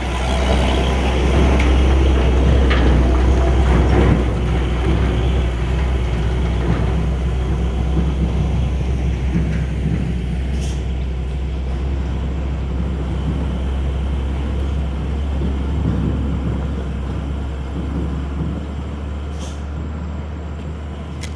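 Heavy diesel truck engine running under load, a deep steady rumble that slowly fades. Brief hisses come about ten seconds in and again near the end.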